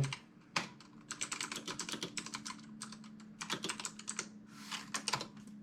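Typing on a computer keyboard: a single key tap about half a second in, then quick runs of keystrokes with short pauses between them, ending a little after five seconds.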